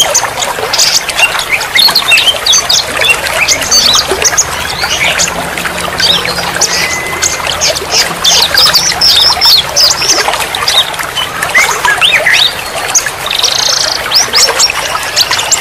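Many songbirds chirping and calling at once in a dense, busy chorus, over a steady hiss of trickling water.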